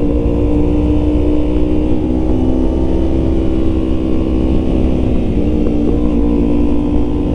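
Yamaha MT-09 three-cylinder motorcycle engine running at a steady cruising pace, its pitch holding nearly constant over a dense low rumble.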